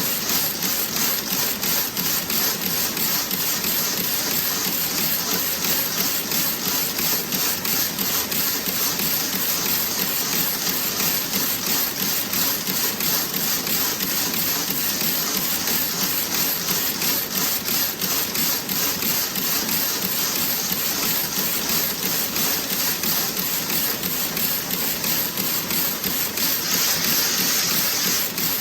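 Toe-sock knitting machine running with a rapid, even mechanical clatter over a steady hiss. Near the end the hiss grows louder for a second or two.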